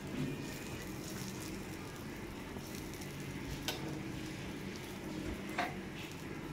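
Aloo paratha frying in oil on a hot tawa over a gas flame: a soft, steady sizzle. A couple of light clicks of a spatula against the pan come in the second half.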